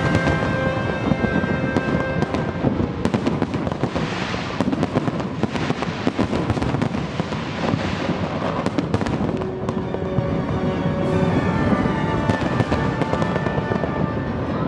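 Fireworks display: a rapid, dense run of bangs and crackles from bursting shells, with music of held notes playing underneath.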